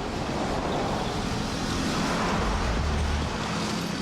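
Road traffic: cars driving past with steady tyre and engine noise. A deeper engine rumble swells and fades through the middle.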